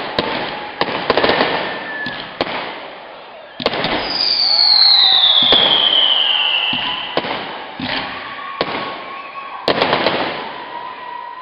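Fireworks going off: a string of sharp bangs and crackles, with a loud whistling firework falling in pitch for about three seconds in the middle, then another cluster of bangs near the end.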